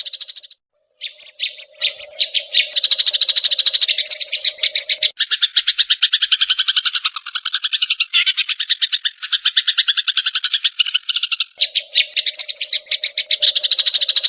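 Sparrows giving a rapid, harsh chatter, the excited calling of sparrows fighting. It breaks off briefly about half a second in, then shifts to a lower-pitched chatter from about five seconds in until near twelve seconds.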